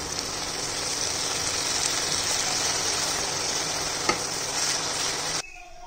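Shredded cabbage sizzling as it fries in a stainless steel pan, stirred with a wooden spatula, with one sharp click about four seconds in. The sizzling cuts off suddenly near the end.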